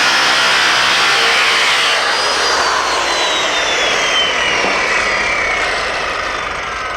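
Power tool cutting sheet metal: a loud, steady, hissing, grinding noise. About two seconds in, a high whine begins to fall slowly in pitch and the sound eases off, as the tool winds down.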